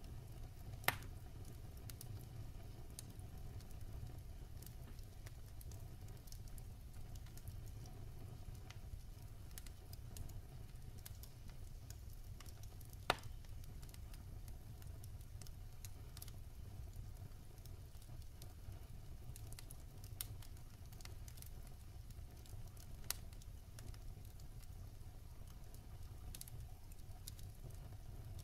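Wood fire burning in a fireplace: a soft steady low rumble with sparse crackles and pops from the burning logs, two sharper pops standing out, one about a second in and one near the middle.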